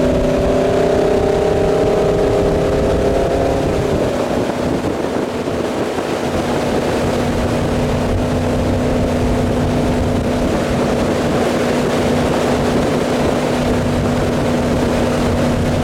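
Wake boat's inboard engine running under way over a steady rush of water. Its note changes about four seconds in, then holds steady.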